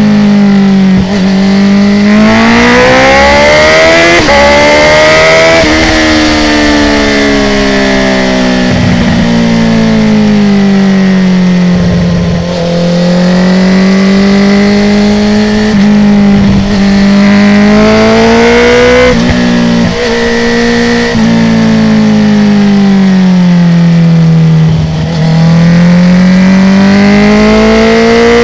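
2019 Honda CB650R's inline-four engine through a full Akrapovic titanium exhaust with the dB killer removed, revving up and falling back again and again as the bike rides through bends. The sound dips briefly several times, and at times the pitch drops abruptly as it shifts up a gear.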